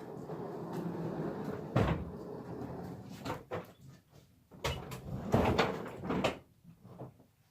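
Household knocks and bumps as things are handled and moved about, with a door or cupboard being opened and shut: one sharp knock about two seconds in, then a cluster of knocks over the next few seconds.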